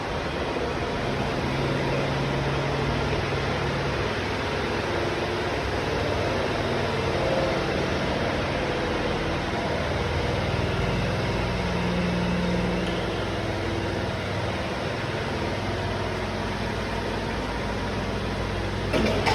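Steady machinery noise with a low hum that wavers slightly in pitch.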